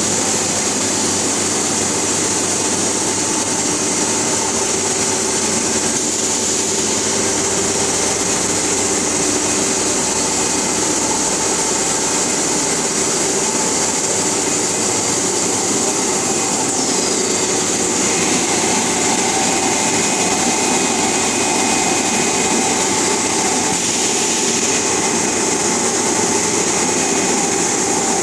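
Polyethylene pipe extrusion line running: a steady machine hiss with several constant hum tones beneath it, unbroken throughout.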